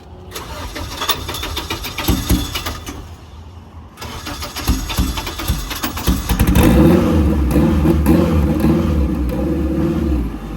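A car engine starting, then running steadily and loudly for a few seconds before the sound drops off near the end.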